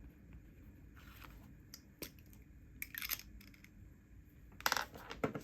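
Stationery handled on a desk: scattered light taps and crisp paper rustles, then a louder clatter of knocks near the end.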